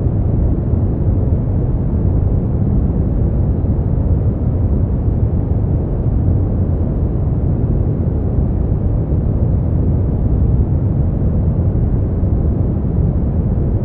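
Steady brown noise: an even, deep hiss weighted toward the bass, with little treble.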